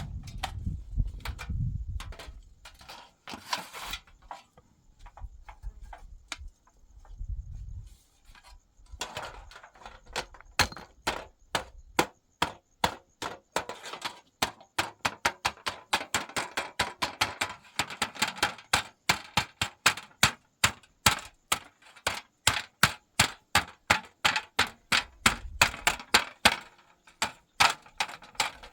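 A long, even run of sharp knocks, about three a second, starting about nine seconds in.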